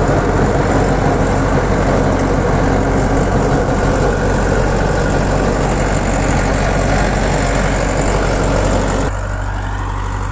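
YTO EMF 604 tractor's diesel engine running steadily, driving a large digger through its PTO at 1000 rpm. Near the end the sound abruptly thins out and gets quieter.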